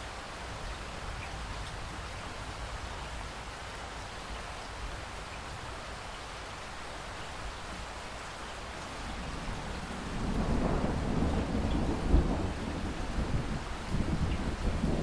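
Steady rain falling, joined about two-thirds of the way through by a low rumble of thunder that swells and peaks sharply once before rolling on.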